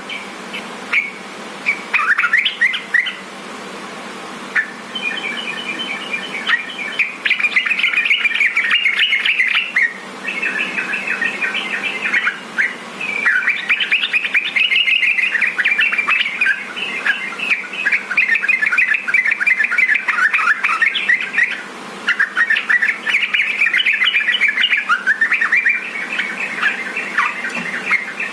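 Yellow-vented bulbul (trucukan) singing a rapid, chattering warble of quick bubbly notes, in long phrases with short pauses; a song recording of the kind played to make captive bulbuls sing.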